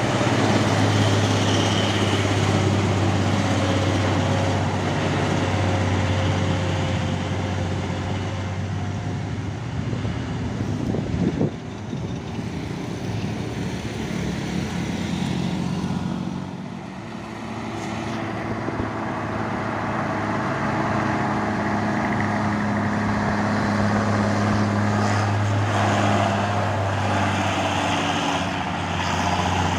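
Heavy diesel truck engines running under load as loaded trucks creep up a steep grade, a steady low drone that shifts pitch now and then. A brief loud knock about eleven seconds in.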